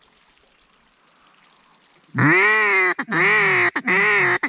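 Mallard duck call blown by a hunter: three long, loud quacks starting about two seconds in, each dipping in pitch and then holding, with a fourth beginning at the end.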